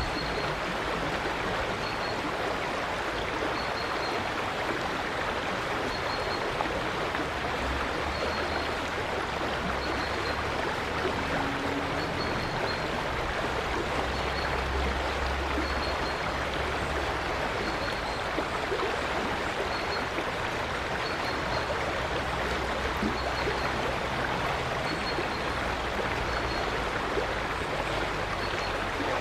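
River water flowing steadily, with a faint high note repeating about once a second.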